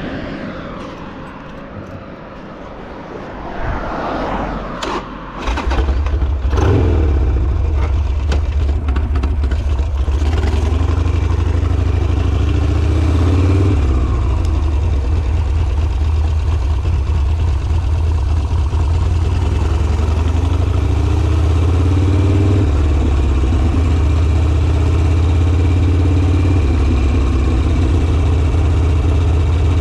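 Harley-Davidson Sportster's air-cooled V-twin engine cranking on its starter and catching about five seconds in, then idling steadily.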